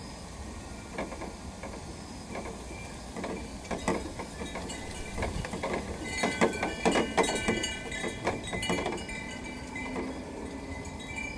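Wind chimes clinking and ringing in the breeze, the strikes coming thickest from about six to nine seconds in, over a steady low rush of outdoor air.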